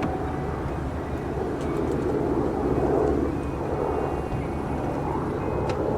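A GMC Acadia Denali's power liftgate opening under its electric motor after its button is pushed. A steady tone stops about half a second in, and a hum swells in the middle, over a constant low outdoor rumble.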